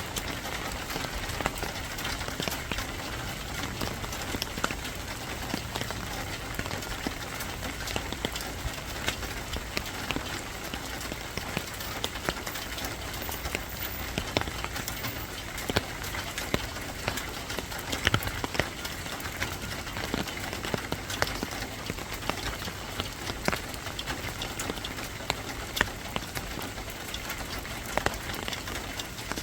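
Steady rain falling on a surface, an even hiss dotted throughout with many sharp ticks of individual drops.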